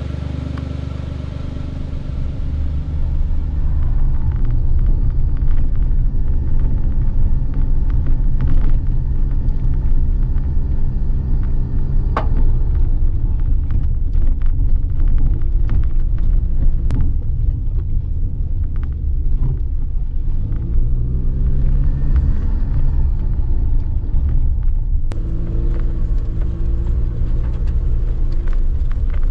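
Suzuki Jimny JB23's small engine running under way, with a steady low rumble of the vehicle; the engine note drops and climbs again about two-thirds of the way through.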